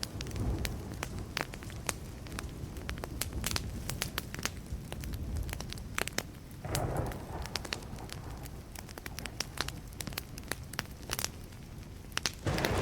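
Burning wood fire crackling, with many sharp irregular pops over a steady low rumble, and two short louder bursts, one about seven seconds in and one near the end.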